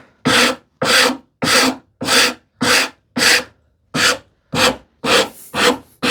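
Wood rasp filing the edge of a wooden strip with its finer side, in about ten steady back-and-forth strokes a little under two a second. Even on the finer side this rasp cuts aggressively, taking material off fast and leaving some breakout at the edge.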